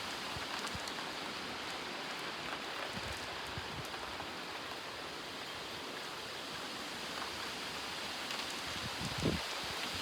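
Steady thunderstorm rain falling. There are a few faint low knocks and one brief low thump about nine seconds in.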